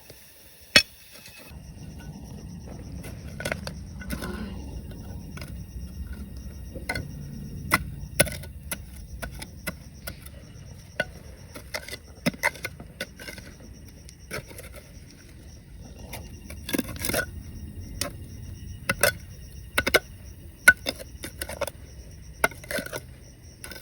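Irregular sharp clicks and knocks of stones and digging tools being worked in a riverbed, over a low steady rumble that starts about a second and a half in.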